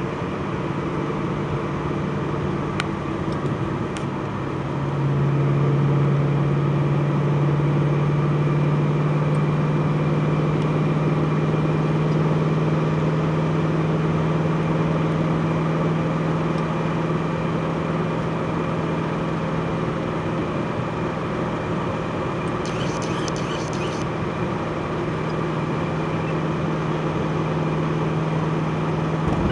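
Twin-turbocharged 5.4-litre V8 of a Ford GT idling with a steady low note. About five seconds in it grows louder, then holds steady. A brief high-pitched chatter lasts a second or so near the end.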